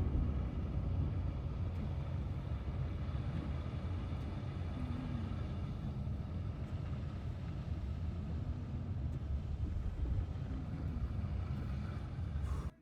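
Steady low rumble, with most of its weight in the deep bass, that cuts off suddenly near the end.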